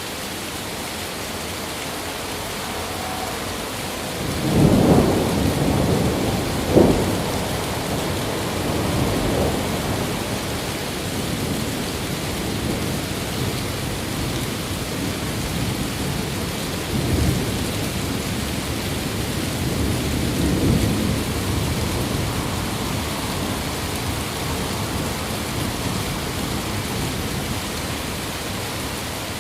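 Steady rain with thunder: a rumble builds about four seconds in, with a sharp crack a few seconds later, and further rolling rumbles follow twice in the second half.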